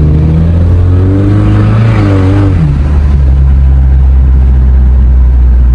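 Sports car engine and exhaust heard from inside the cabin while driving, a steady low drone whose note changes about two and a half seconds in.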